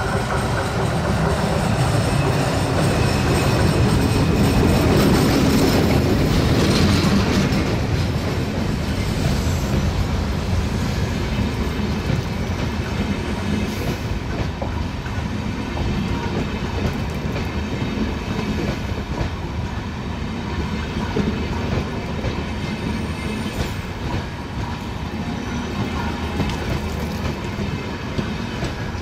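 Diesel-hauled passenger train passing close by. The locomotive goes by loudest about five seconds in, then the coaches keep rolling past, their wheels running steadily over the rails.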